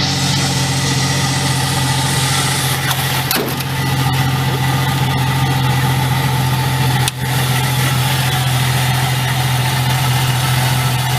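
1995 Jeep Cherokee engine idling steadily, with a faint high-pitched whine from the alternator, which a mechanic put down to worn alternator bearings.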